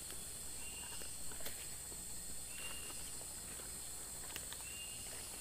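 Tropical rainforest insect chorus, a steady high-pitched hiss, with a short high call repeating about every two seconds and a few light snaps.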